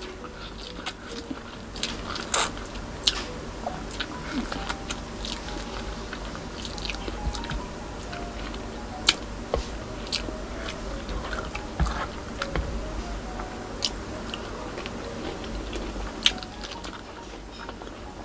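Close-miked eating sounds: chewing and biting with many short wet clicks and smacks, starting as she bites into an orange slice and continuing as she eats rice and fish by hand.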